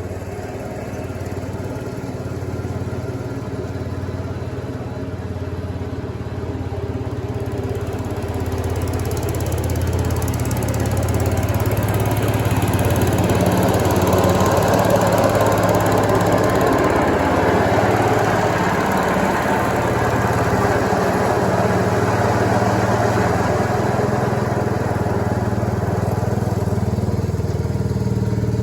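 Garden tractor engine running steadily while mowing grass, its sound growing louder and fuller over the first ten seconds or so and then holding.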